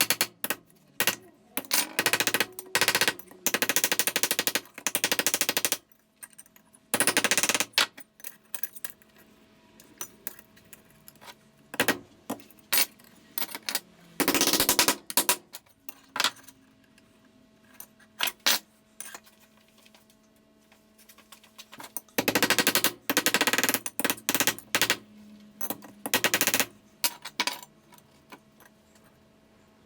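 A power tool run in short bursts, each a rapid rattling hammering lasting from half a second to about two seconds, with pauses between, over a faint steady hum.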